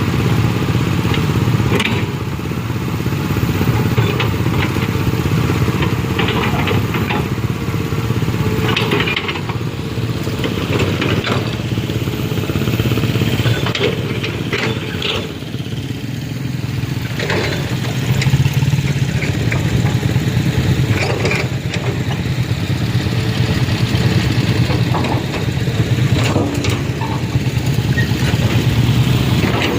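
Motor vehicle engine running steadily, with scattered short clatters and knocks over it.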